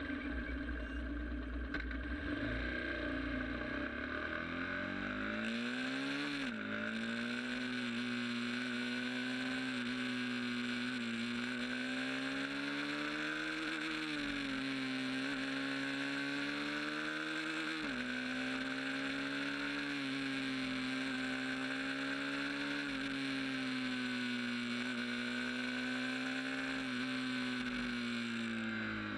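Sport motorcycle engine pulling away with its pitch climbing, a sharp drop at a gear change about six seconds in, then cruising at a fairly steady speed with a few small rises and dips in pitch, easing off near the end.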